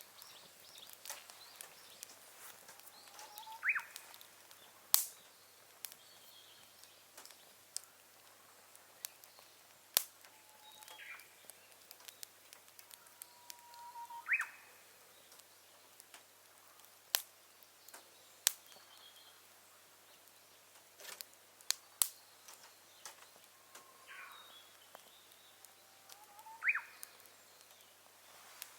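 Firewood burning in a small campfire grill, giving off scattered sharp crackles and pops, several of them loud. A bird calls repeatedly in the background, a short low note rising into a quick upward sweep every few seconds.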